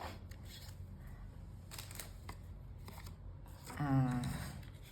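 Light handling of paper and craft tools: a few soft clicks and rustles, the clearest about two seconds in. A brief voiced murmur comes about four seconds in.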